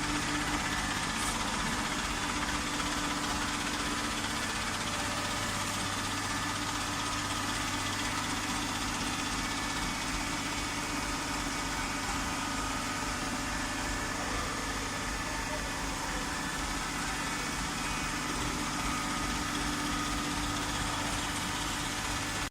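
Automatic waste-paper baling machine running, a steady mechanical hum with a low drone and no distinct strokes or impacts.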